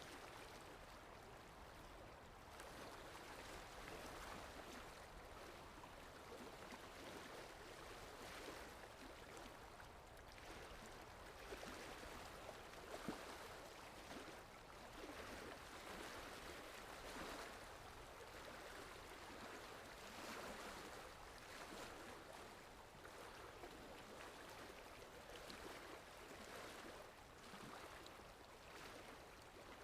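Faint sea waves washing in, a soft steady rush of water that swells and eases every few seconds.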